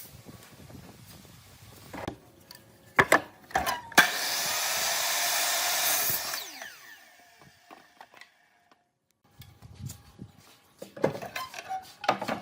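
A small power tool runs steadily for about two seconds, then switches off and winds down, with a falling pitch as the motor coasts to a stop. Wooden knocks and clicks of handling come before and after it.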